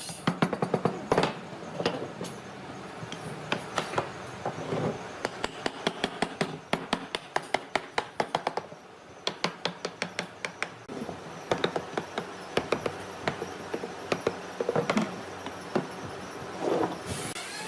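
A series of sharp taps and knocks of a hand tool on wood. They come irregularly, with a faster even run of about four to five a second in the middle.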